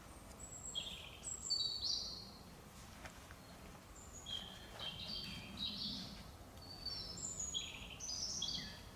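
A small songbird singing two phrases of quick, high notes that step downward in pitch, a short phrase at the start and a longer one from about four seconds in.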